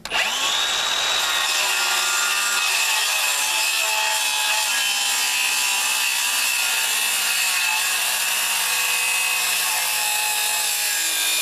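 Milwaukee circular saw starting with a quick rising whine, then cutting steadily through a thick wooden timber. The timber is deeper than the blade, so the cut does not go all the way through.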